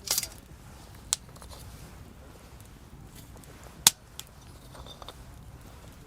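Building a wood campfire: a brief rustle right at the start, then a few sharp cracks or clicks, the loudest just before four seconds in, over a low steady background.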